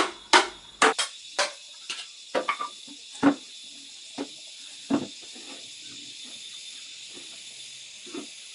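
Rapid, evenly spaced tool strikes, about two to three a second, that slow and stop about a second and a half in, followed by a few scattered single knocks. A steady high-pitched hiss runs underneath.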